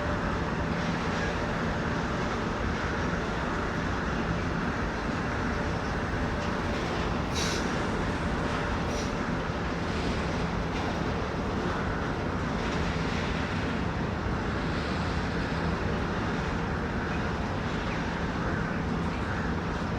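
Train running through the station: a steady rumble with a low hum, and a brief high-pitched squeal about seven and a half seconds in, with a fainter one shortly after.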